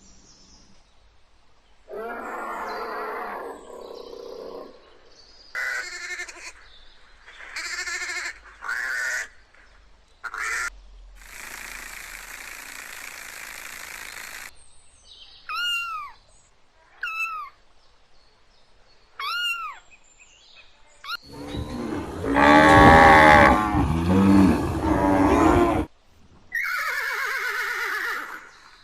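A string of separate animal calls, each a few seconds long, with short gaps between them; three short rise-and-fall calls come in the middle, and the loudest is a long, deep roar near the end.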